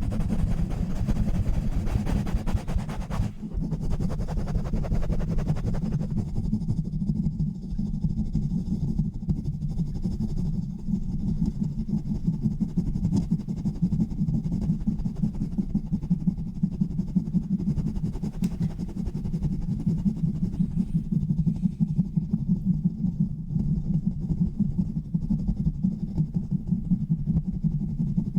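Fast, hard rubbing directly on a bare microphone with no filter or cover: a dense low rushing noise made of rapid strokes, brighter and scratchier for the first three seconds.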